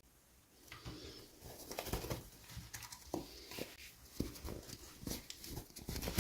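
Hands handling toy packaging: irregular rustling with small taps and clicks.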